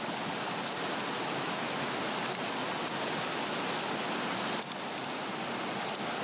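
Swedish torch, a slotted cedar log, burning well: faint crackles and pops over a steady rushing hiss.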